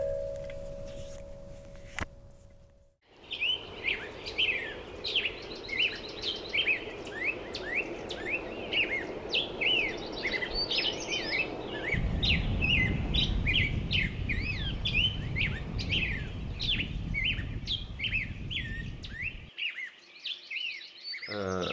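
Many small songbirds chirping and singing over a steady outdoor background hum, with a low rumble joining about halfway through and stopping shortly before the end. It opens with the last ringing notes of a kalimba dying away.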